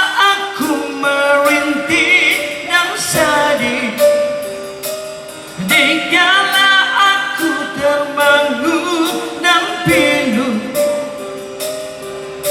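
Live rock band playing loud music, with singing and a wavering lead melody over guitars and drums, with the echo of a concert hall.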